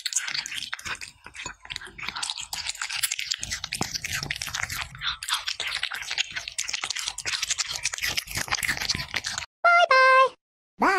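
Crunchy chewing: a dense run of quick crackling bites that stops abruptly near the end. Then come short electronic pitched tones that step down in pitch.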